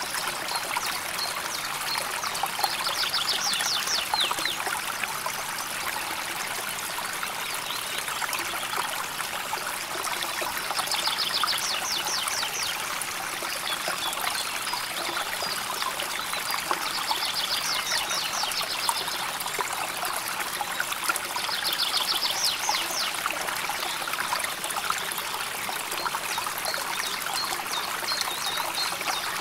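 A river flowing gently with a steady babble of running water. Over it a bird gives a rapid, high trill about five times, each lasting a second or two.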